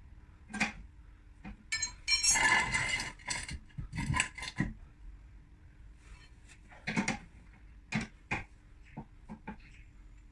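Metal hand tools and car parts clinking and knocking in irregular strikes, with a longer rattling clatter about two seconds in.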